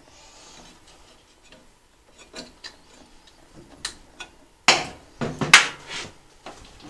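Light clicks and scrapes of metal hand tools working on the small engine as the new spark plug is snugged up, with two louder knocks about five seconds in.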